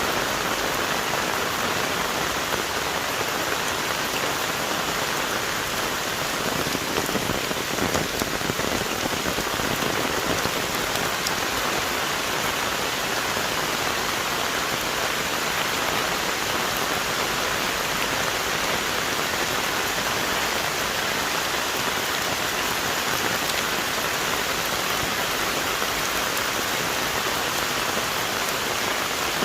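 Heavy, steady rain falling on the forest's trees and leaves, a dense even hiss of drops.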